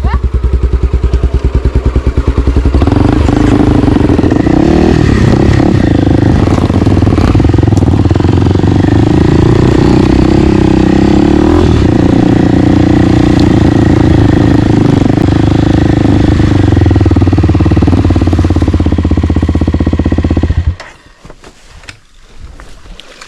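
Single-cylinder four-stroke dirt bike engine. It pulses at low revs, then runs under throttle from about three seconds in and holds steadily under load, before cutting out suddenly near the end.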